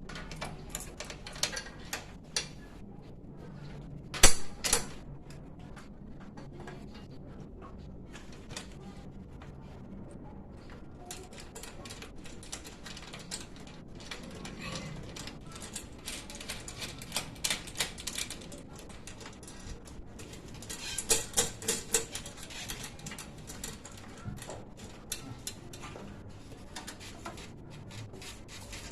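Scattered clicks and knocks of hand tools and parts being handled during air-conditioner installation work, with one sharp knock about four seconds in and short runs of rapid clicking in the second half.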